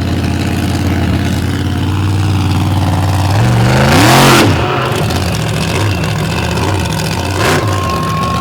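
Monster truck engine running at a steady low throttle, then revved hard about three and a half seconds in, rising to a loud peak with a burst of noise. It then drops back and runs with the throttle worked up and down.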